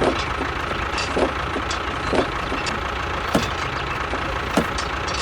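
Mini tractor engine idling steadily, with short falling squeaks about once a second.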